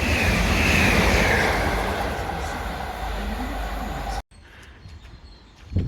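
Gatwick Express Class 387 electric multiple unit passing through the station: a loud rush of wheel and air noise with a high tone that slowly falls. The sound cuts off abruptly about four seconds in.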